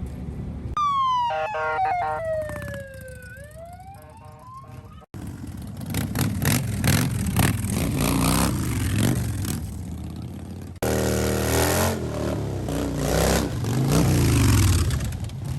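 A siren-like wail that falls in pitch and then rises again, followed by motorcycle engines revving hard, their pitch climbing and dropping, with rough noisy running typical of a burnout.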